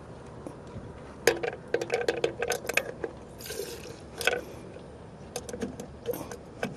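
Clicks and taps of a plastic fuel sampler cup pushed up against a Cessna 172's fuel drain valve, with a short spurt of fuel hissing into the cup about three and a half seconds in.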